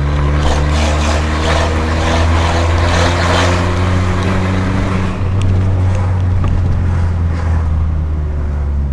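Car engine running steadily under light throttle, heard from inside the cabin over a rush of road and wind noise. The rush is strongest in the first few seconds, and the engine note dips briefly about five seconds in.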